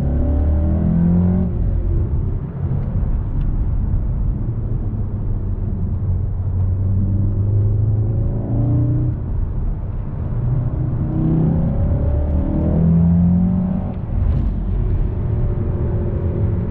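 Mk7 Volkswagen Golf R's turbocharged 2.0-litre four-cylinder in race mode, pulling hard and revving up through the gears of its manual gearbox. The engine pitch rises several times, with brief dips at the gear changes about two, ten and fourteen seconds in.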